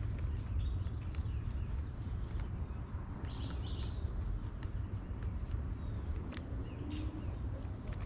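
Steady low wind rumble on the microphone, with scattered sharp ticks and taps as a dark-eyed junco hops and pecks among peanuts on a wooden railing. Short high bird chirps come about three seconds in and again near seven seconds.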